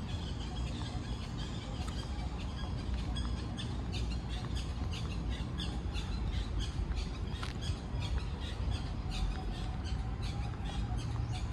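Birds chirping in quick, repeated short calls, about three a second, over a steady low background rumble.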